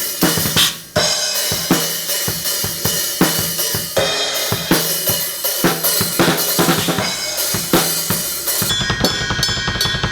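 Drum kit played at a fast pace: bass drum, snare and cymbal hits, with a brief break about a second in and denser low drumming near the end.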